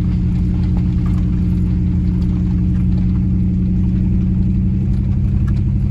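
Pickup truck engine pulling steadily up a climbing road, heard from inside the cab: an even hum with a steady low drone and no change in pitch.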